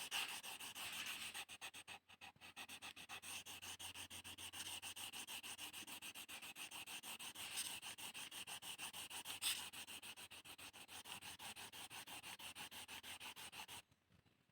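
Yellow colour being scribbled onto paper with quick, even back-and-forth strokes as the bird's body is filled in. The scratching stops suddenly near the end.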